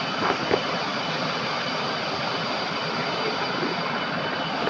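Waterfall running with a steady, even rush of water, with a couple of faint knocks about half a second in.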